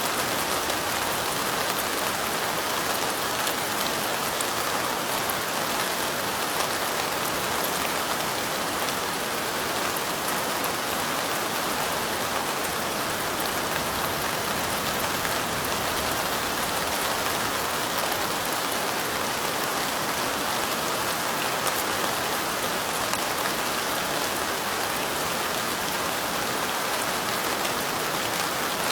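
Steady light rain pattering on a surface, a dense even hiss of fine drops with no pauses.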